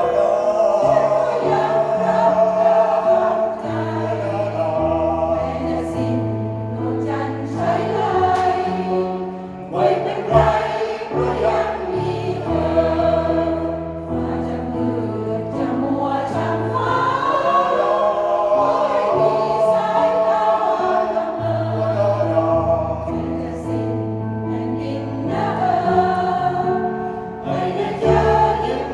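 A senior choir singing a song in parts, continuous throughout.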